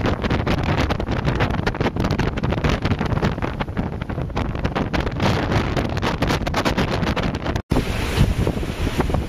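Strong wind buffeting the microphone in loud, gusty rumbles, which cut out for an instant near the end.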